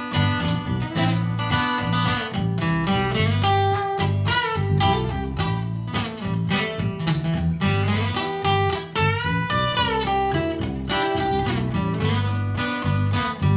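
Instrumental break in a live song: strummed acoustic guitar and a bass line, with a lead melody of bending notes played over them.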